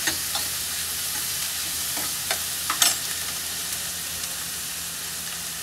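Chopped onions frying in hot oil in a steel pan, a steady sizzle. A few sharp clinks of a metal spoon against the pan come about two to three seconds in.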